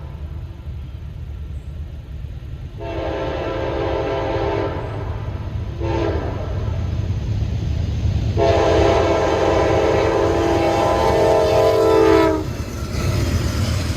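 Amtrak GE Genesis diesel locomotive's multi-tone air horn blowing the grade-crossing signal: a long blast, a short one, then a final long one held about four seconds, over the steady rumble of the approaching train, which grows louder.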